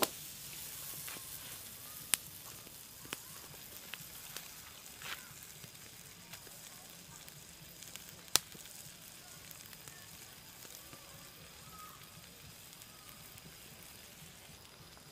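Vegetables and prawns frying in a wok over a wood fire: a steady, fairly quiet sizzling hiss, broken by a few sharp clicks, the loudest about two seconds and eight seconds in.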